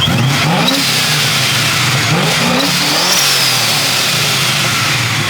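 Car engine revving at a car meet, its pitch rising sharply twice about two seconds apart over a steady engine drone.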